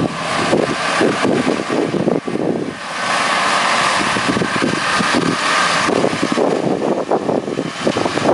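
Tractor running, with a steadier, brighter machine noise for a few seconds in the middle and wind buffeting the microphone.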